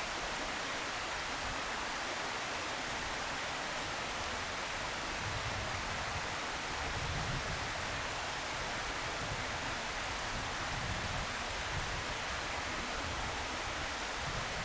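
Steady, even hiss of outdoor background noise, with soft low rumbles coming and going.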